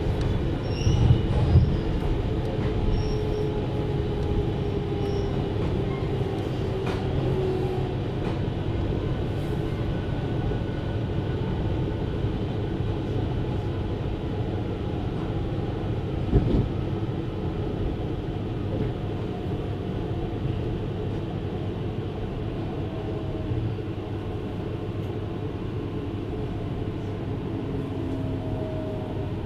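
Running sound inside a 733 series electric train: a steady rumble of wheels and running gear, with faint tones that glide slowly lower. A single knock sounds about halfway through.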